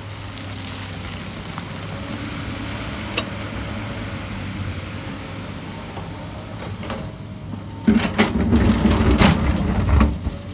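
Hyundai excavator's diesel engine running steadily. About eight seconds in, loud irregular knocking and clattering starts, as rock and earth are worked and dropped.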